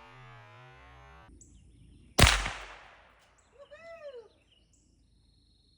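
A single gunshot about two seconds in, sharp and loud with a decaying tail, followed about a second later by a few short chirping calls. Music plays briefly at the start.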